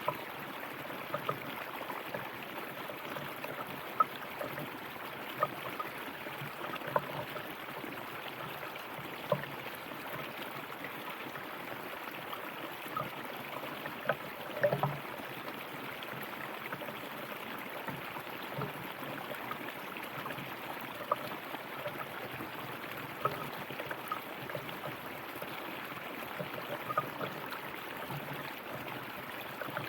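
River water flowing over stones: a steady rush with frequent small bubbling plinks and an occasional louder splash.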